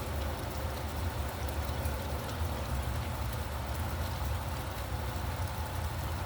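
Steady rain falling, with faint scattered drop ticks over a continuous low rumble of traffic.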